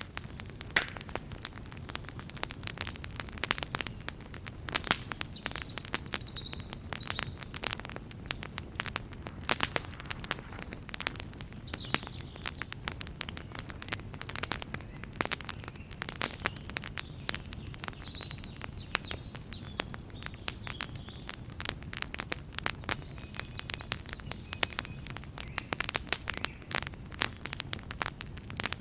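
Wood campfire crackling: a dense, irregular run of sharp pops and snaps over the low, steady rumble of the burning fire.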